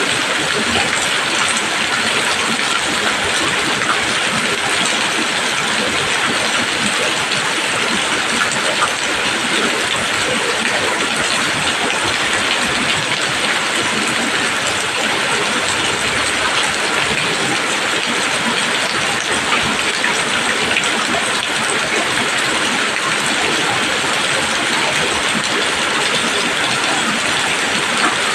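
Heavy, steady rain falling on leaves, a dense patter of drops.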